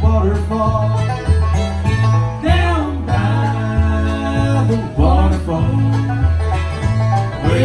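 Bluegrass band playing, with banjo and guitar picking over a bass line that moves steadily back and forth between two notes, and a few sliding notes.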